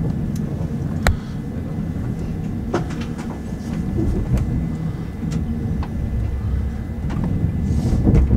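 Passenger train running, heard from inside the carriage: a steady low rumble with sharp clicks and knocks from the wheels over the track, and a louder knock near the end.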